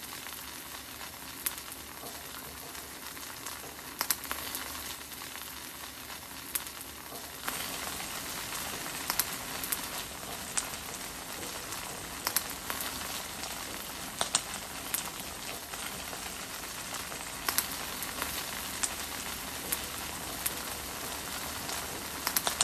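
Grilled cheese sandwich frying in a hot pan, its melted cheese sizzling with a steady hiss and scattered sharp pops and crackles. The sizzle gets louder about a third of the way in.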